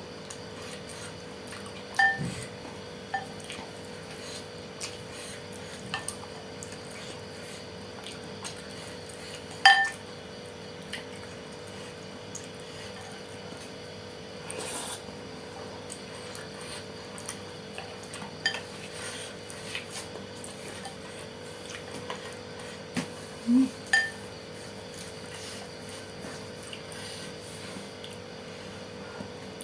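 Spoon or fork clinking against a bowl now and then, several seconds apart, between quieter eating sounds while noodles are eaten. A faint steady hum runs underneath.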